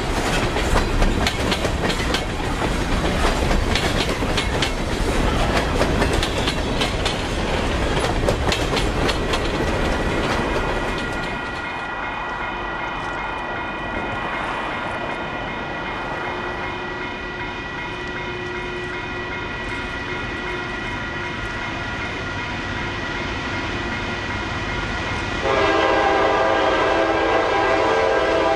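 Freight gondola cars rolling past with clattering wheels on the rails for about the first eleven seconds. Then a grade-crossing warning bell rings steadily. Near the end an approaching GE C40-8 locomotive sounds its Nathan K5LA five-chime horn in a long blast.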